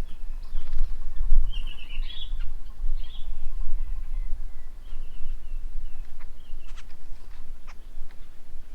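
Garden birds chirping with short calls, over a steady low rumble. A few sharp ticks come near the end.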